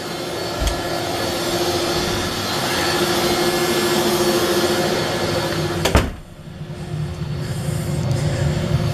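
DeWalt 611 router on an X-Carve CNC machine running steadily as it carves wood with a V-bit, a steady whine over a noisy hiss. A sharp knock about six seconds in, after which the router sounds muffled and duller.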